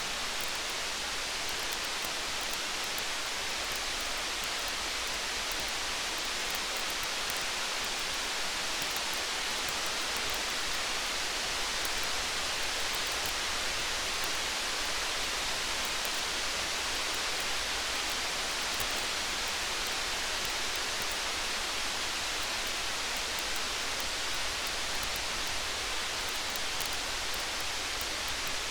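Rain falling steadily, an even hiss that does not change, with faint small ticks scattered through it.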